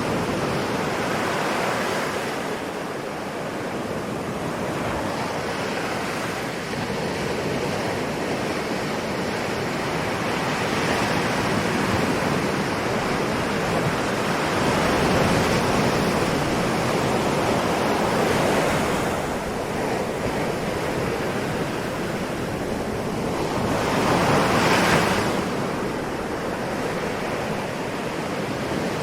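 Ocean waves breaking and washing in as a continuous surf, with two louder breakers in the second half.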